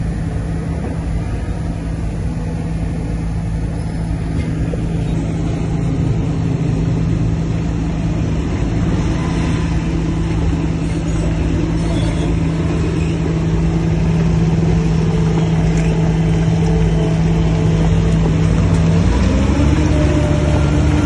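Shantui bulldozer's heavy diesel engine running steadily under load, then revving up about 19 seconds in.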